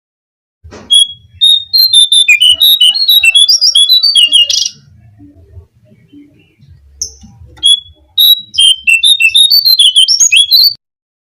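Jongkangan (cingcoang coklat, lesser shortwing) song played as a lure call: two bursts of rapid, jumbled high chirping notes, each about three seconds long, with a short pause between.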